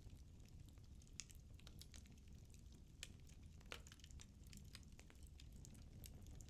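Firewood burning in a fireplace: faint, irregular crackles and small pops over a low, steady rumble of the flames.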